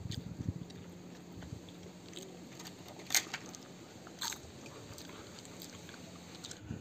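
A person eating rice with his hand: quiet chewing and mouth sounds, with two short sharp clicks about three and four seconds in.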